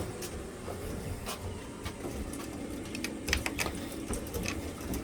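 Irregular clicks and knocks, with a quick cluster about three and a half seconds in, over a low rumble: chick feed and its container being handled.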